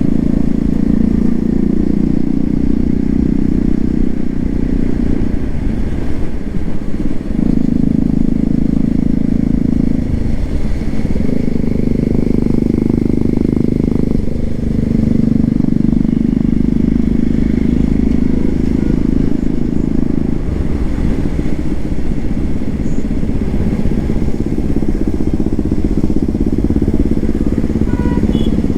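Hero XPulse 200 4V's single-cylinder engine running through an aftermarket SC Project exhaust, a steady low exhaust note that dips and picks up again several times.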